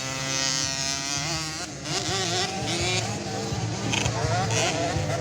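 Small 50cc motocross bike engines racing, revving up and down in pitch; one engine's pitch climbs steadily over the first second and a half.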